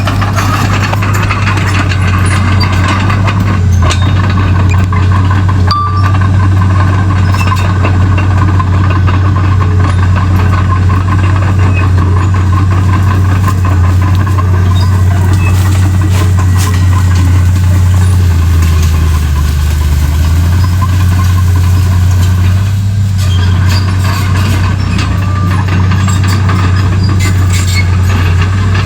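Komatsu D31P crawler bulldozer's diesel engine running steadily under work, a loud low drone that dips in pitch briefly about two-thirds of the way through.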